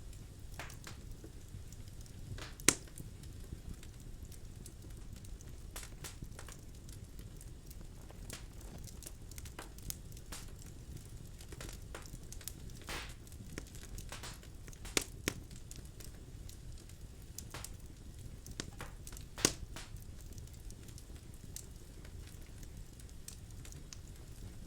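Birch logs burning in a fireplace: a low steady rumble of the fire with scattered crackles and sharp pops, the loudest snaps about 3, 15 and 19 seconds in.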